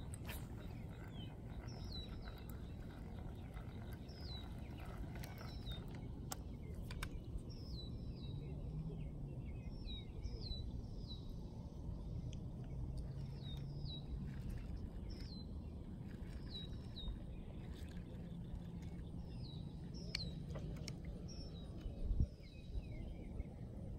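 Small birds chirping over and over, short falling chirps often in pairs, above a low steady outdoor rumble. A few faint clicks and a soft bump near the end.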